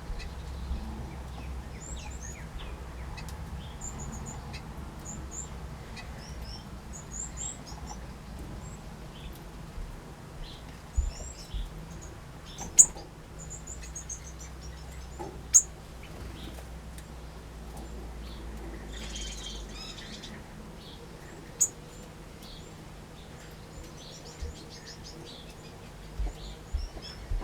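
Small aviary finches and waxbills chirping and calling in short, high notes, with a few sharper, louder calls standing out. A low steady rumble sits underneath and fades about two-thirds of the way through.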